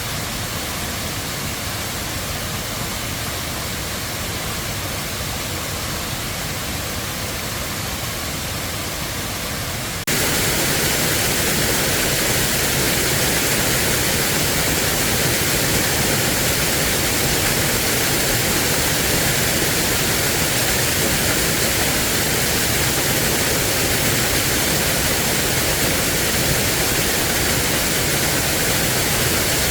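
Waterfall rushing in a steady, even noise that jumps abruptly louder about ten seconds in.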